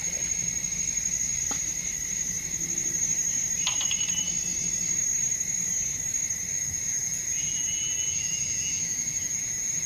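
Steady insect chorus of crickets or similar jungle insects, shrilling in two continuous high-pitched tones, with a few short chirps about four and eight seconds in.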